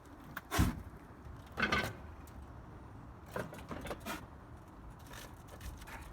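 A muffled blast about half a second in, then several shorter thumps and bangs: gasoline vapour igniting inside a microwave oven.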